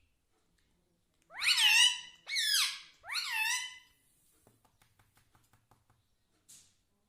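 Indian ringneck parrot giving three short, squeaky calls in quick succession, each rising then falling in pitch, followed by a few faint ticks.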